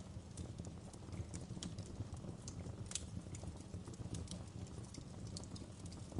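Wood fire burning in a fireplace: a steady low rumble of flames with irregular crackles and pops from the burning logs, a louder pop about three seconds in.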